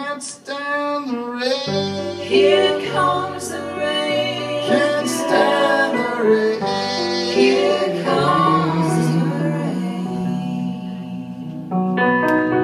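Live band performing a slow soul song: a woman's voice sings drawn-out, wavering notes without clear words over sustained bass notes and guitar.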